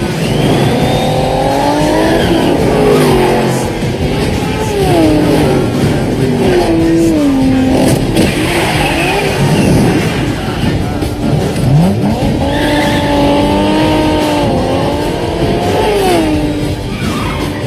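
Movie car-chase sound effects: car engines revving up and down again and again, with tyres squealing.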